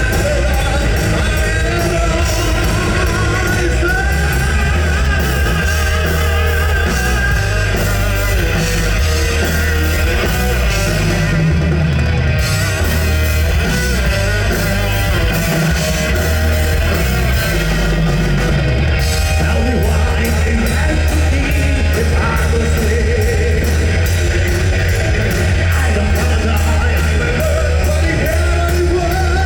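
Live heavy metal rock band playing: electric guitars, bass and drums with a sung vocal line, the cymbals and drums beating steadily apart from two short breaks in the high end about twelve and nineteen seconds in.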